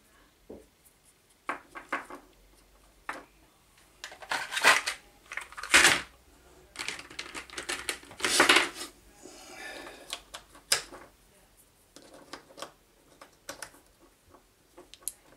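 Tools and small metal parts being handled on a workbench during rewiring: irregular clicks, knocks and clatter, busiest in the middle, with a brief rustle.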